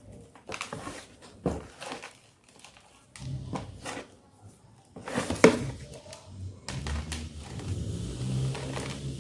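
White gym chalk being crunched, a run of sharp, irregular crunches and snaps, the loudest a little past halfway.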